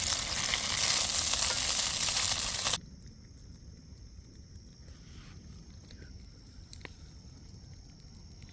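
Battered bass fillets frying in hot oil, a loud steady sizzle that cuts off suddenly about three seconds in, leaving a quiet background with a faint steady high-pitched tone.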